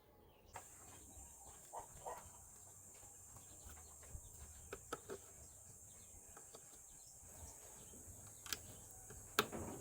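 Faint background ambience: a steady high hiss with scattered light clicks and taps, the sharpest one near the end.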